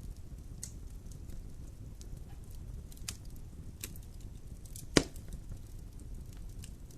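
Fire burning in a fireplace, crackling: a steady low rumble of the flames with scattered small snaps, and one loud pop about five seconds in.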